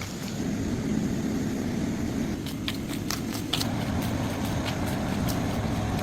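Steady low rumble of a running engine, with a few sharp clicks around the middle.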